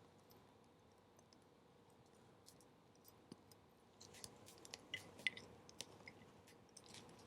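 Small wood bonfire crackling softly: a faint steady hiss with scattered clicks, becoming busier about halfway through with several sharper pops.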